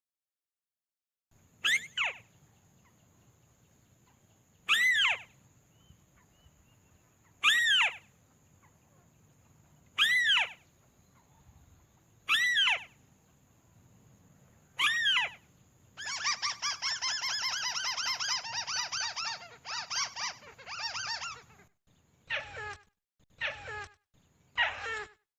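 Crake calling: sharp, downward-sliding squeaky notes about every two and a half seconds, then a fast rattling trill of about five seconds, then more short descending notes. A faint steady hiss from the recording lies underneath.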